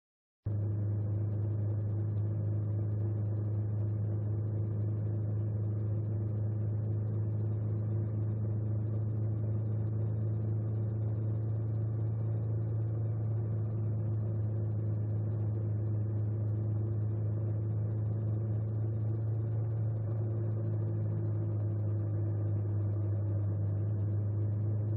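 An engine running steadily at constant speed, a continuous low hum with no change in pitch; it starts and stops abruptly.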